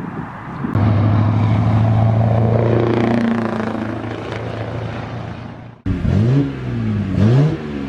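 Lorry diesel engine running steadily, fading away; then, after an abrupt cut, another lorry engine rising and falling in pitch several times.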